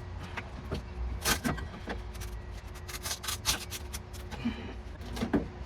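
Old asphalt sound-deadening mat being pried and peeled off a car's sheet-metal floor pan: irregular scraping, crackling tears and small knocks over a low steady hum.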